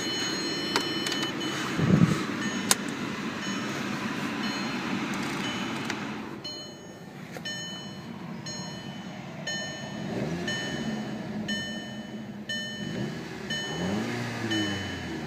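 The 2008 Audi TT's turbocharged 2.0-litre four-cylinder engine running, blipped in quick rises and falls of revs several times in the second half. A short electronic warning chime repeats about twice a second throughout, and there are a couple of sharp thumps about two seconds in.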